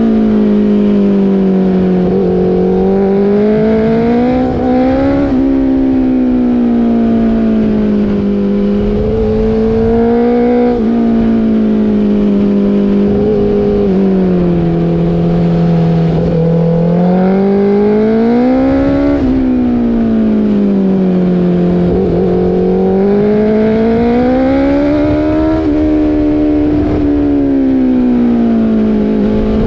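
Motorcycle engine running while being ridden, its pitch rising and falling slowly with the throttle. The pitch drops suddenly about five seconds in, and again about two-thirds of the way through.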